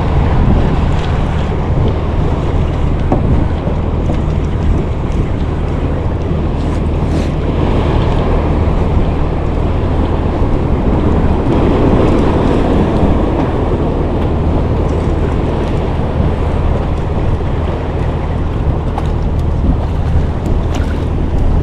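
Steady wind rushing over the microphone, with waves and water around a small boat.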